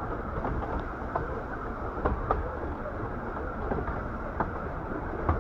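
Carriage of a 15-inch gauge miniature railway train running along the track: a steady rumble with scattered sharp clicks and rattles.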